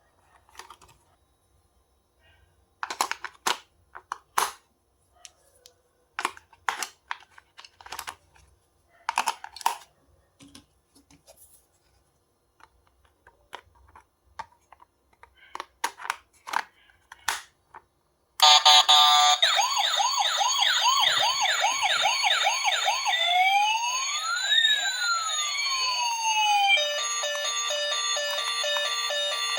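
Scattered clicks and taps of a plastic toy being handled. About eighteen seconds in, a toy's electronic siren starts loud: a fast wailing warble, then tones gliding up and down across each other, then a repeating beep pattern near the end.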